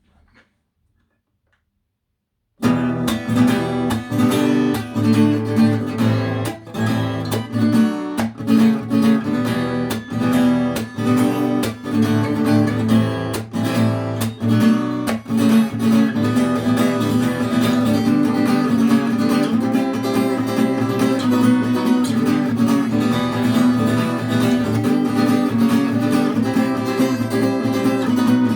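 Acoustic guitar strummed in a steady rhythm as a song intro, starting after about two and a half seconds of silence.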